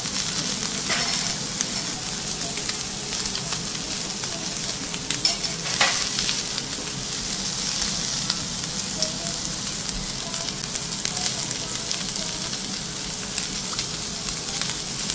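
Thick noodles and asparagus frying on a hot teppanyaki iron griddle: a steady sizzle with scattered crackles and pops, a few sharper pops about a second in and around six seconds in.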